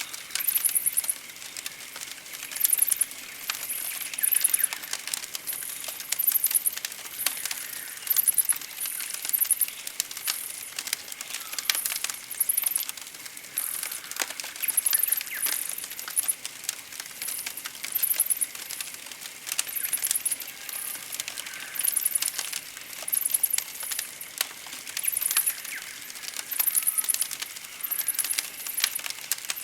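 Campfire crackling with sharp pops, under very high-pitched, rapid trilling bird calls that come in short bursts every second or so.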